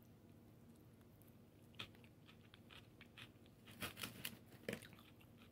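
Faint bites and chewing of takeout chicken: a crunch about two seconds in and a small cluster of crunches near four seconds, otherwise near silence.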